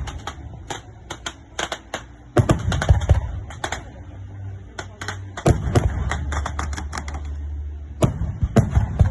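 Firecrackers going off in rapid, irregular volleys of sharp pops, several bursts in a row, over a low rumble.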